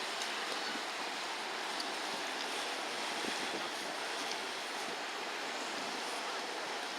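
Steady rushing wash of river water along the bank, an even hiss with no engine tone or rhythm.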